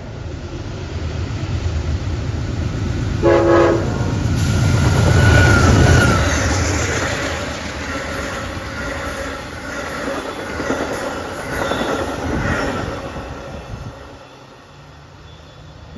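A train passing close by. The locomotive gives one short horn blast a few seconds in. The rumble of the train builds to its loudest about six seconds in, then fades as the cars roll past.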